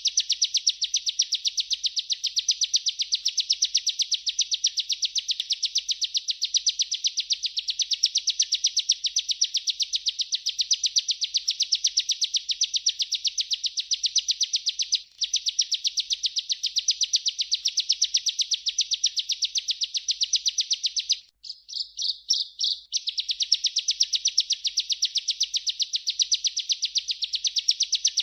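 Bar-winged prinia (ciblek) singing its long rolling song: a fast, unbroken run of evenly repeated high chirping notes. There is a momentary break about halfway through, and near the end a short stutter of separate notes before the run resumes.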